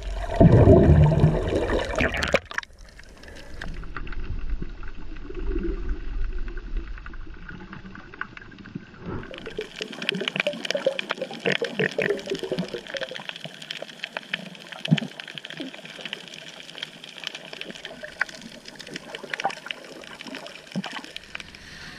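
Water splashing and trickling. A loud, low, rough rush in the first two seconds cuts off suddenly, and from about nine seconds in there is a busier patter of many small splashes.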